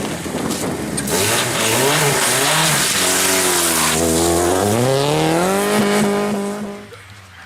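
Competition car's engine revving hard, pitch rising and falling in short pulls, then a longer pull that climbs, dips and climbs again before the sound fades away near the end.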